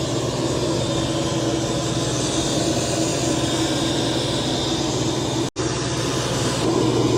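eufy Omni S1 Pro robot vacuum-mop running: a steady whir of its suction motor and rolling mop, with a constant hum under a broad hiss. It drops out for an instant about five and a half seconds in, then carries on.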